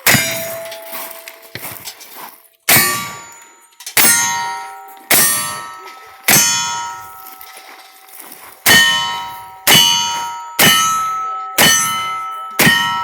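Ten gunshots, each followed by the ringing clang of a steel target being hit. They come in two strings of five, about a second apart, with a pause of about two seconds between them.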